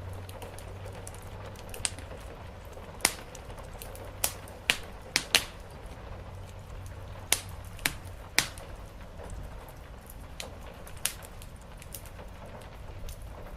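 Wood fire crackling, with sharp irregular pops about once a second, over a steady low rumble and a soft hiss of rain on a roof.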